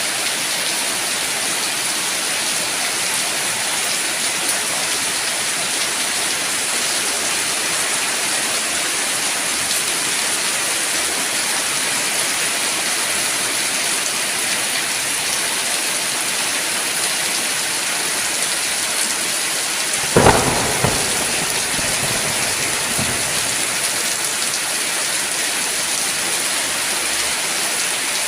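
Steady heavy rainfall, with a sudden thunderclap about twenty seconds in that is the loudest moment, followed by a few fainter rumbles.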